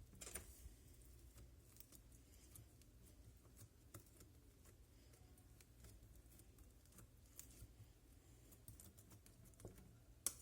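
Faint, scattered small clicks and pops of homemade slime being squeezed and handled, with a louder pop near the end.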